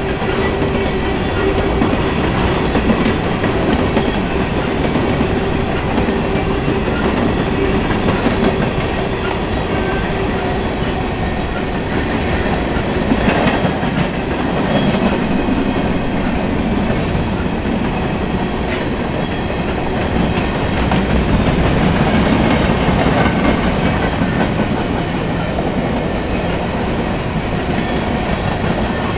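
Freight train of covered hopper cars passing close by: a continuous loud rolling rumble with the clickety-clack of steel wheels over the rail joints.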